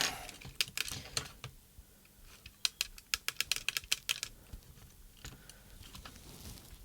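Small sharp plastic clicks and taps from handling the open transmitter and its tiny wiring connectors, with a quick run of clicks in the middle like fingers working a fiddly plug onto the circuit board.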